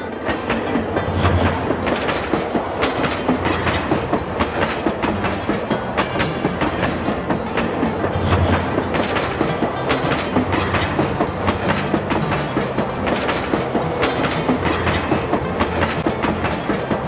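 Train running along the track: a steady low rumble with the rhythmic clickety-clack of wheels over rail joints.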